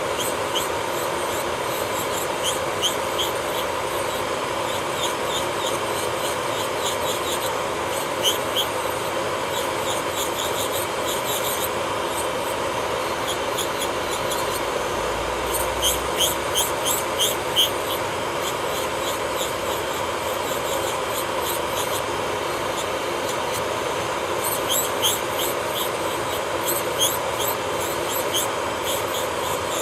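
Electric nail drill (e-file) running at a steady high speed with a steady whine, its bit grinding and scraping against a fingernail in short squeaky strokes, in clusters about halfway through and again near the end.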